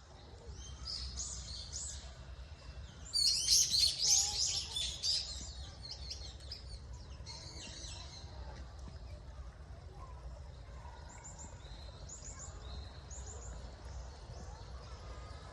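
Small birds chirping and twittering. The loudest is a dense burst of rapid chirps from about three to five seconds in, with lighter runs of chirps later, over a low steady rumble.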